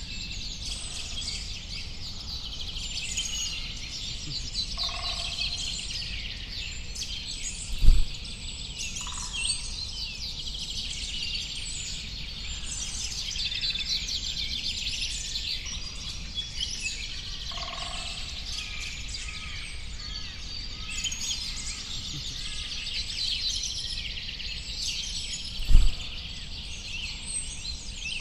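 Many small birds chirping and twittering at once in a dense, unbroken chorus, with a few lower calls now and then. Two brief low thumps stand out, about eight seconds in and near the end.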